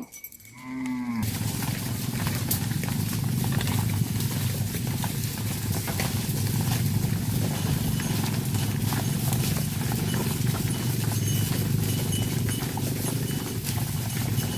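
Cattle mooing. A short falling call comes first, then about a second in a loud, dense, steady din of many cattle sets in abruptly and holds.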